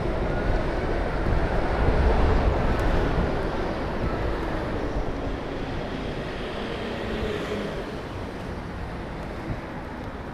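Wind rush and road noise around a rider on a moving electric motorcycle, with no engine sound. It is strongest about two seconds in and then fades gradually.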